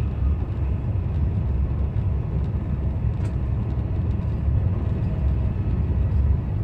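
Haramain high-speed train running at close to its 200 km/h top speed, a steady deep rumble with fainter hiss above it.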